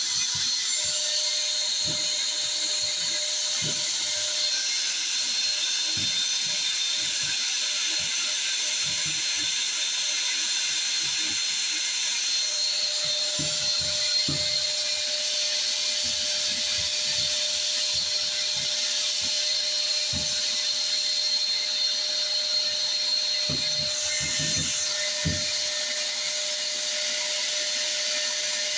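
Shop vac running steadily with a high whine as it sucks lint out of a dryer vent, with scattered low knocks and bumps as the hose is worked in the vent.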